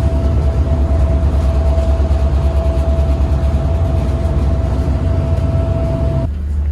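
Steady, loud low rumble and drone of the Queen Beetle high-speed ferry's engines heard inside the passenger cabin, with a thin steady whine over it. The whine and much of the rumble cut off abruptly near the end.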